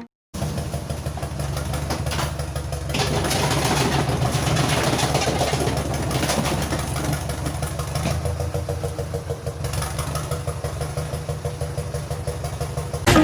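Engine idling steadily with a fast, even pulsing rumble, picking up slightly about three seconds in and settling back.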